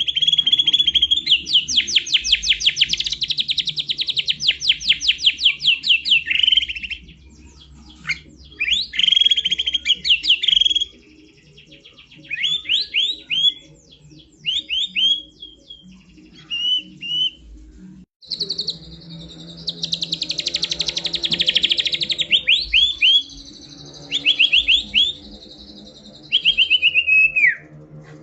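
White-rumped shama (murai batu) singing: long, loud, rapid trills of repeated high notes, broken by pauses and short whistled phrases. A second long trill comes past the middle and a falling whistle near the end.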